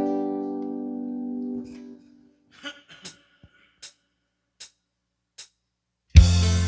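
A final guitar chord rings and fades out over about two seconds. A pause follows with a few short, faint clicks. Near the end, the next guitar piece starts loudly over a strong bass note.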